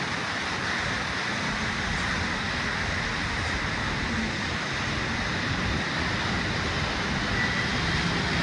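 Steady city road traffic: an even hiss of tyres on wet road over a low rumble of engines.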